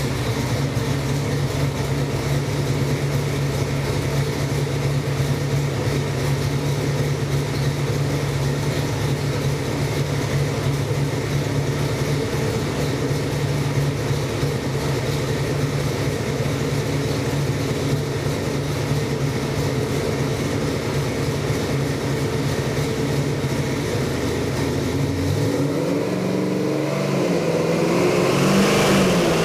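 408 Ford Windsor stroker V8 with Weber carburettors running on an engine dyno during a dyno run. It holds a steady speed for most of the time, then the engine speed climbs in steps over the last few seconds.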